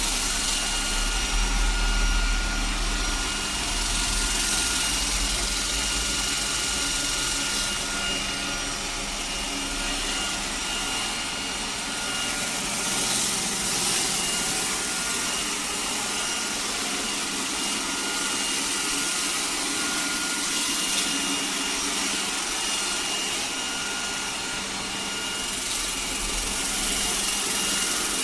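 iRobot Roomba 105 Combo robot vacuum running, its suction fan giving a steady rush with a high motor whine. The rush swells and eases every few seconds as the robot moves.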